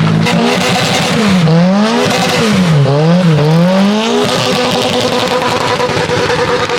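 Car engine revving, its pitch dipping and climbing three or four times, then holding at a steady higher speed before cutting off suddenly.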